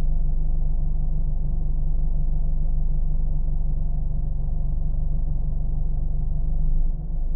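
Car engine running steadily: a low, even rumble. Near the end it drops suddenly in level and settles into a slightly thinner hum.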